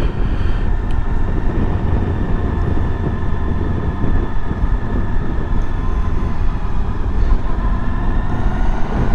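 Suzuki V-Strom DL1000's V-twin engine running at a steady cruise while riding, mixed with wind rush on the bike-mounted camera's microphone.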